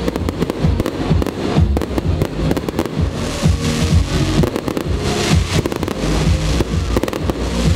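A fireworks display: aerial shells bursting and crackling in quick succession, with music playing underneath.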